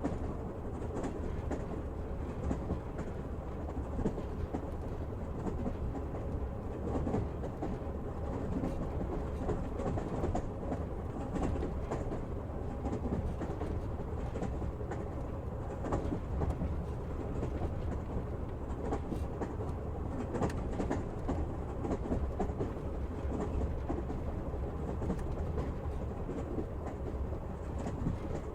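Passenger train running, heard from inside the carriage: a steady rumble of the wheels on the track, with a clack of the wheels over a rail joint now and then.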